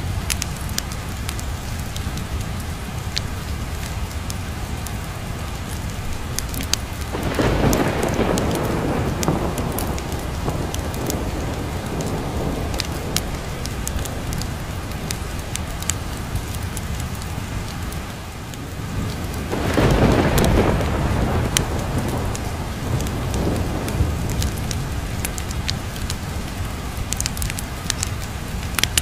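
Steady rain with two rolls of thunder, one starting about seven seconds in and a louder one about twenty seconds in, and scattered sharp ticks throughout.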